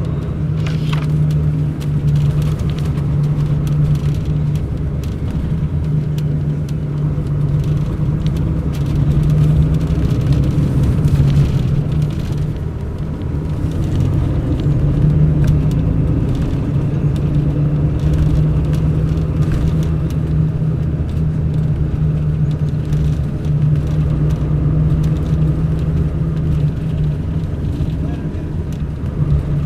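Mercedes-Benz O500 RSD BlueTec5 coach's diesel engine running on the move: a steady low drone that swells and eases a little.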